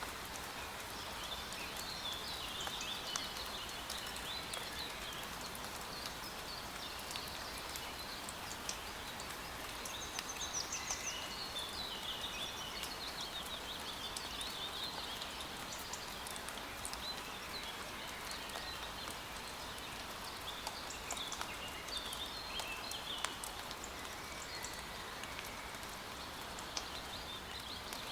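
Steady patter of rain in woodland, with songbirds chirping and warbling all through.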